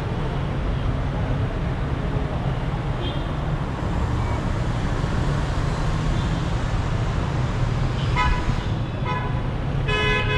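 Steady rumble of dense city traffic, with vehicle horns honking: a short toot about eight seconds in, a brief one a second later, and another near the end.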